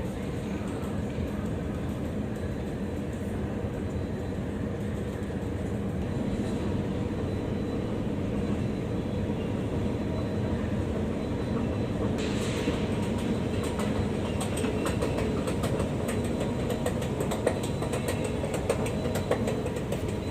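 Sydney Metro train running with a steady low rumble. About two-thirds of the way through, a hiss and a run of rapid clicks and clatter join in, and the sound grows slightly louder.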